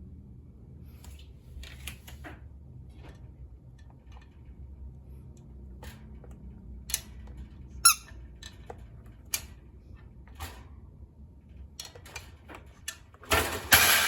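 Squeaky donut toy being played with by an African grey parrot: scattered small clicks and taps, a short squeak about eight seconds in, and a louder, longer squeak near the end.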